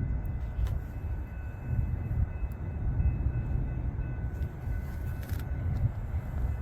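Amtrak's California Zephyr passenger train approaching: a steady low rumble of its diesel locomotives and wheels on the rails, with faint steady high tones above it.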